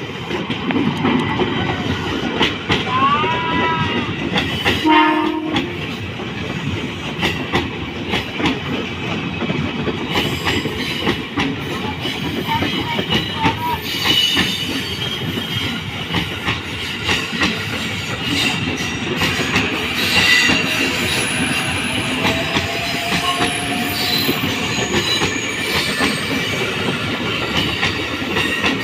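Electric commuter train (ex-Tokyo Metro 6000 series EMU) passing over a level crossing close by, wheels clattering on the rails the whole time, with a short horn sound about five seconds in.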